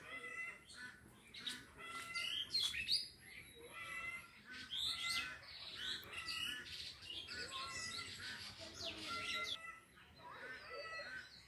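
Birds chirping in the trees: many short, repeated high notes, with a few louder calls that sweep upward in pitch.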